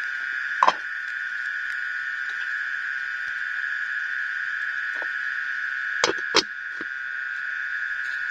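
Steady high-pitched drone of a night-time insect chorus, with a sharp knock about a second in and two more close together near the six-second mark.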